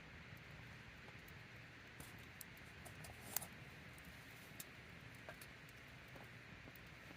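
Wood campfire burning with faint, scattered crackles and small pops over a steady low hiss, one sharper pop about three and a half seconds in.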